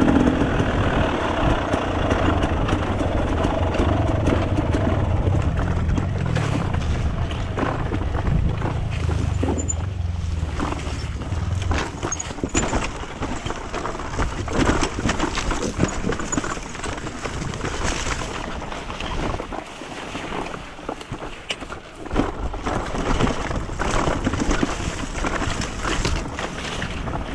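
Enduro dirt bike engine running, with a steady low hum through the first half that then fades into a rough, noisy rush broken by many short knocks and clatters.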